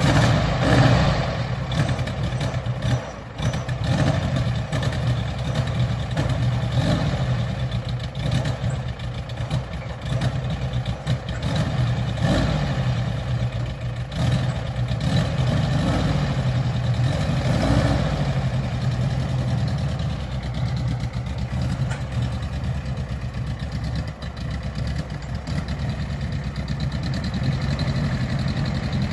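Air-cooled VW flat-four engine, freshly rebuilt to 1800cc, in a 1969 Karmann Ghia, just started and running. It is revved briefly several times in the first twenty seconds, then settles to a steady idle.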